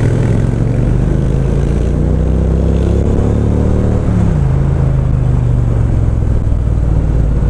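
Motorcycle engine pulling under way, its pitch rising slowly as it accelerates, then dropping sharply about four seconds in as the rider shifts up a gear, and holding steady after.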